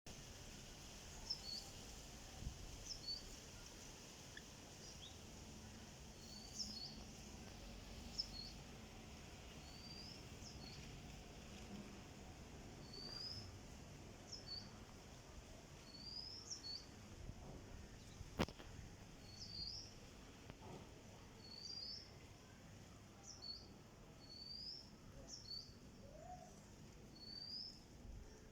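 A bird chirping faintly and repeatedly: short, high chirps, each a quick pitch glide, about one a second. A single sharp click about two-thirds of the way through.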